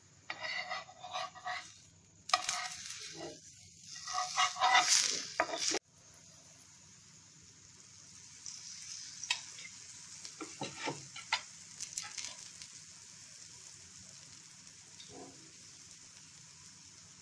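Buckwheat-flour chilla frying in oil in a non-stick pan. For the first six seconds louder scraping sounds run over the sizzle and then cut off suddenly; after that a quieter steady sizzle with scattered crackles and pops.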